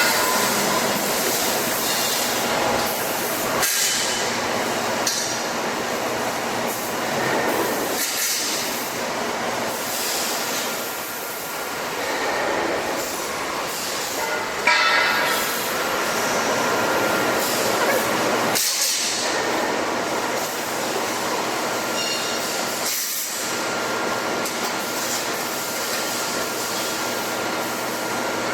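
Heavy industrial machinery of a TDF tire-shredding line running steadily, a dense mechanical din with metallic clinks and squeals.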